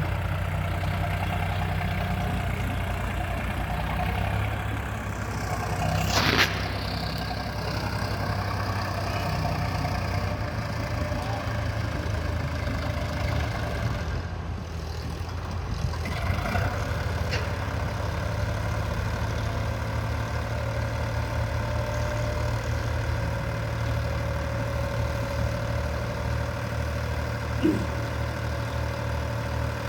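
Sonalika tractor's diesel engine running steadily at low revs. There is a brief sharp noise about six seconds in.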